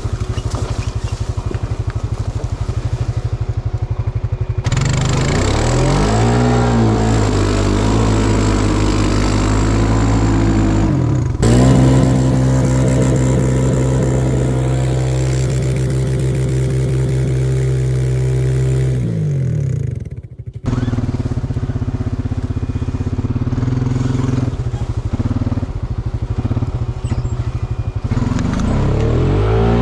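Honda Rancher ATV's engine running under load off-road, its revs rising and falling several times and holding high for several seconds in the middle. It drops off briefly about twenty seconds in, then picks up again.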